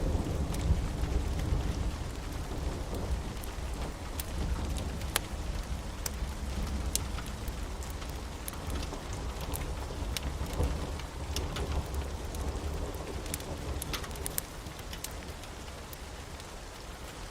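Steady rain with low rolling thunder, the rumble strongest in the first half and easing off toward the end, with scattered sharp ticks of drops.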